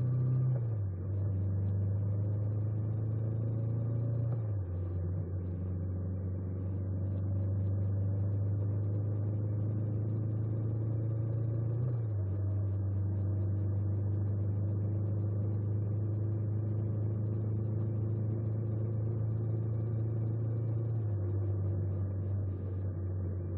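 Honda 400X motorcycle's parallel-twin engine running steadily under way, its low note shifting pitch in abrupt steps four times.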